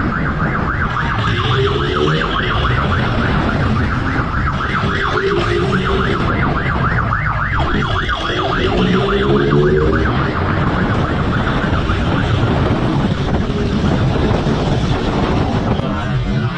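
Police siren in fast yelp mode, a rapid warble repeating several times a second, over the loud rumble of vehicle engines and road noise. An engine rises and falls in pitch a few times.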